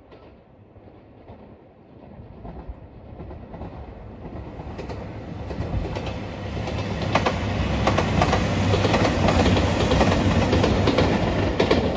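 JR Shikoku 2700 series diesel express train approaching and passing close by, growing steadily louder from about two seconds in, its wheels clattering over rail joints.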